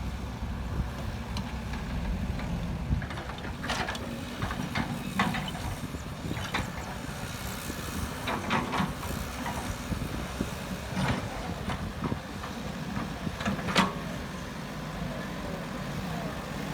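Heavy diesel construction machinery running steadily at a low rumble, with occasional sharp knocks and clanks, the loudest near the end.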